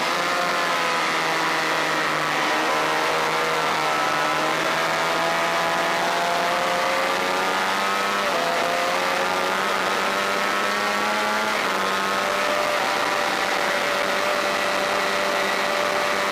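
Honda VFR400 V4 motorcycle engine running at moderate, fairly steady revs. Its pitch creeps up and drops in steps about eight and about eleven and a half seconds in, as it changes up a gear. A steady rush of wind noise sits underneath.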